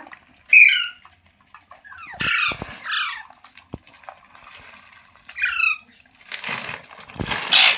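Indian ringneck parrot giving short, sharp squawks, each sliding down in pitch. The loudest comes about half a second in, with a pair around two to three seconds and another near five and a half. A burst of rustling noise follows near the end.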